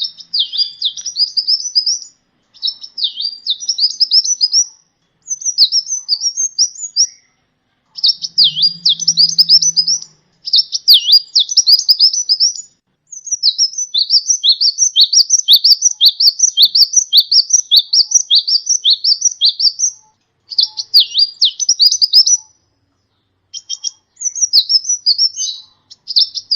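Sunbird song: fast runs of high, thin chirping notes, delivered in phrases of a second to several seconds with short pauses between.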